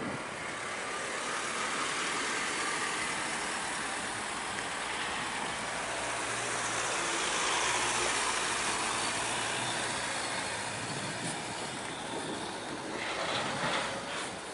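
Heavy truck driving past, its engine and tyre noise swelling to a peak about halfway through and then fading, with a brief clatter near the end.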